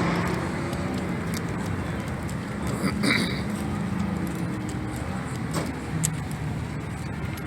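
Car engine running steadily, with a brief higher-pitched sound about three seconds in.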